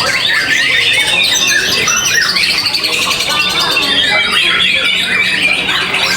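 Many caged songbirds singing at once, a dense, unbroken tangle of fast chirps, trills and whistles.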